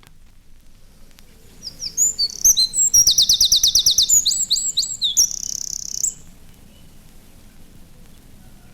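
Eurasian wren singing one loud, high-pitched song of rapid repeated notes and trills. It starts about two seconds in, lasts about four seconds and ends on a fast trill.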